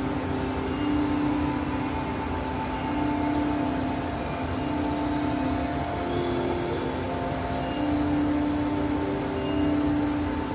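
Kaohsiung Metro Red Line train running, a steady rumble with several held electric whining tones that come and go every second or so.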